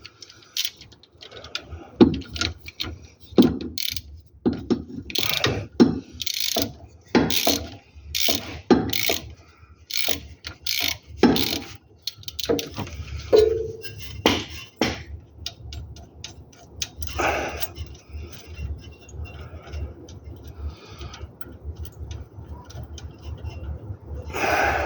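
A ratchet wrench clicking and metal tools knocking on the underside of the car, at an uneven pace: dense strokes for the first half, then sparser clicks, with a brief squeak about halfway.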